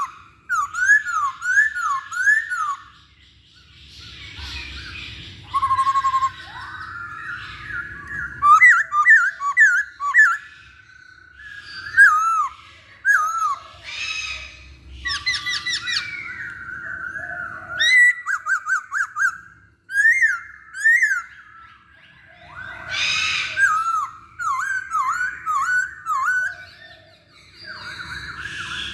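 Masked laughingthrush (Hongkong poksay) singing: runs of quick, loud whistled notes repeated over and over, broken by a few harsher calls, with thin high chirps above.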